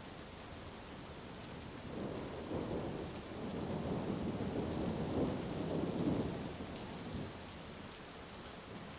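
Steady heavy rain with one long roll of thunder that builds about two seconds in, peaks midway and rumbles away before the end.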